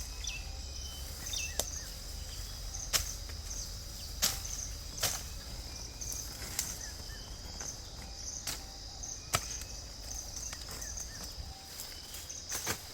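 Irregular sharp knocks, a dozen or so at uneven spacing, over insects chirping in a steady pulsing chorus.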